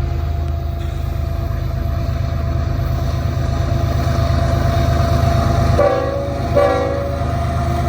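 CN freight train passing with a steady rumble. Two short horn toots sound near the end.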